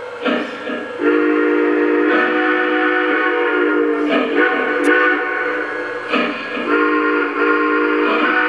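Lionel Legacy model steam locomotive's sound system blowing its multi-chime steam whistle in three long blasts with short breaks between them, as the engine sets off.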